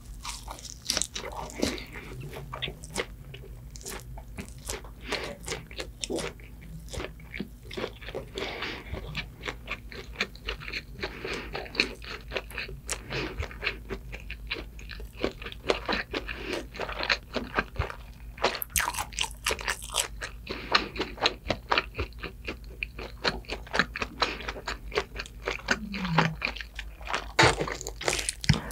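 Close-miked biting and chewing of a flaky sausage pastry, with a steady run of small, irregular crisp crunches.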